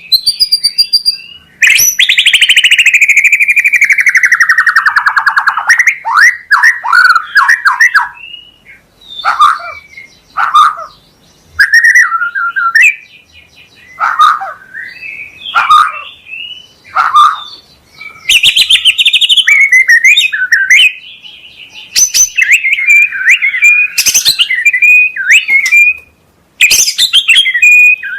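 White-rumped shama (murai batu) singing loud, varied phrases. A long note slides down in pitch a couple of seconds in, followed by short, sharp phrases with pauses between them, and faster, denser runs in the second half.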